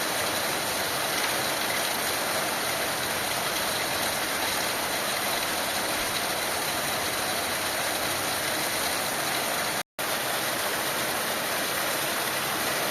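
Heavy monsoon rain falling, a steady even hiss, which cuts out completely for a split second about ten seconds in.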